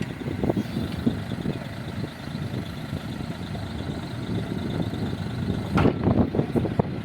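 Diesel engine of a heavy earthmoving machine running unevenly, with a louder surge about six seconds in.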